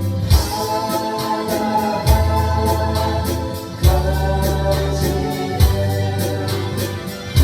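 Instrumental trot-style arrangement on an electronic organ: a held melody over sustained chords and a bass line, with a drum-machine beat, a strong low hit about every second and a half and quick high ticks between.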